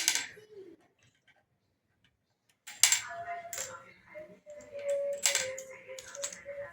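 Sharp clicks and clacks of game pieces being set down, one at the start and then a quick run from about three seconds in, with a held tone under the later clicks.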